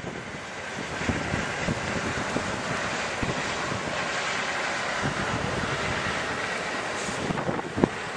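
Freight train cars rolling past on the track: a steady rumble and rattle of wheels on rail with irregular thumps, and a few sharp clanks near the end. Wind buffets the microphone.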